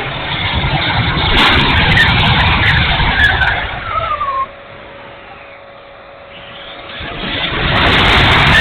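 70mm electric ducted-fan model jet flying, its fan giving a loud rushing noise that drops off suddenly about four and a half seconds in and builds again near the end.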